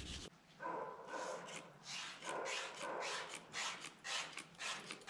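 Repeated back-and-forth rubbing strokes, about one or two a second, on a plastic taillight lens being wiped and polished by hand.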